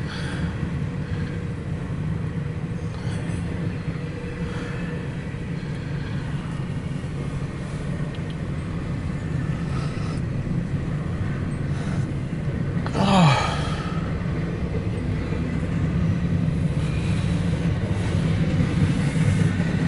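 CSX intermodal freight train rolling past, a steady low rumble of the cars on the rails. About two-thirds of the way through, a brief sound sweeps down in pitch and is the loudest moment.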